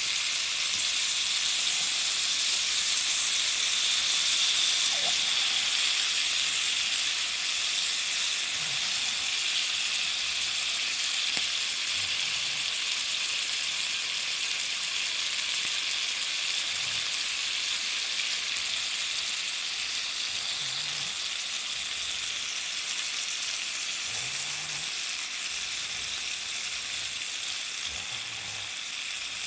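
Garlic shrimp and vegetables in sauce sizzling steadily in a small cast-iron skillet, a continuous frying hiss that slowly grows quieter.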